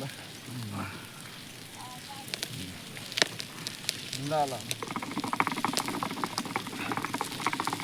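Open wood fire crackling, with sharp pops and a steady sizzle, as meat roasts over it. Short bits of voices come through, and a fast, dense chattering burst runs from about two-thirds of the way in.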